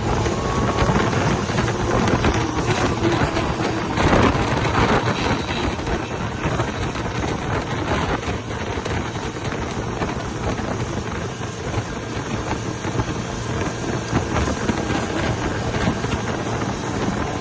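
Radio-controlled offshore model boats running on the water, their motor pitch faintly rising and falling under heavy wind noise on the microphone.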